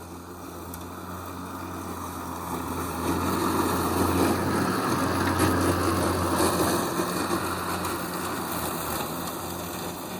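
Battery-electric Mowrator S1 robot mower driving on tractor tires with its blade switched off, its drive motors humming steadily. The sound gets louder over the first few seconds and eases off near the end.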